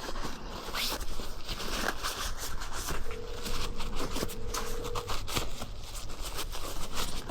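Quick scratching and rubbing strokes with light clicks, as of metal axle parts being handled and wiped. A faint steady tone sounds for about two seconds in the middle.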